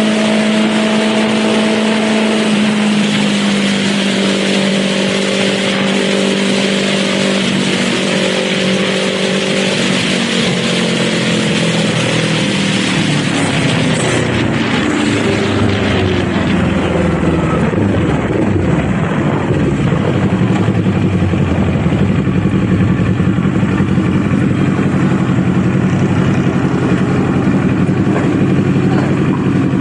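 Kawasaki Z400 parallel-twin engine heard from the rider's seat, its note falling in steps as the bike slows, with wind rush dying away about halfway through. For the rest it runs steadily at low revs.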